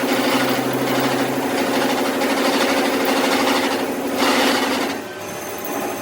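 Workshop machine running with a steady hum and a fast, even rattle, getting harsher just after four seconds in, then cutting out about five seconds in, leaving a quieter background.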